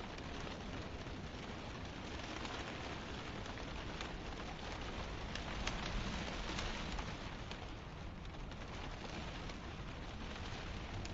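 Steady hiss of fine drizzle and wind, with a low wind rumble underneath and a few scattered light drop ticks.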